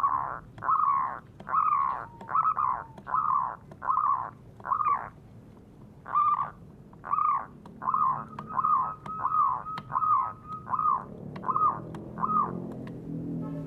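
A bird calling in a steady series of short, harsh notes, about one and a half a second, stopping about twelve seconds in. Low music starts up under it near the end.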